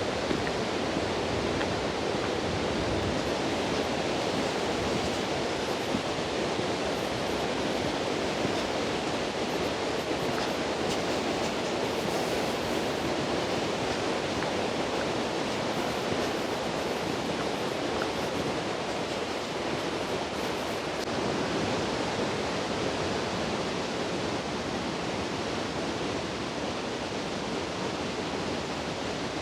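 Steady rushing of a large waterfall's water, mixed with wind in the trees.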